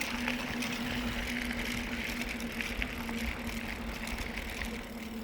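Mountain bike rolling along the trail: a steady tyre hum with small scattered rattles and clicks from the bike.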